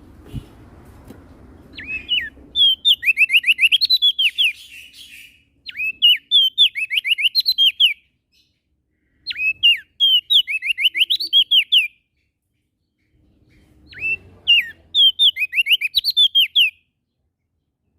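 A prenjak daun songbird singing four phrases. Each is a quick run of sharp, falling whistled notes lasting two to three seconds, with short pauses between phrases.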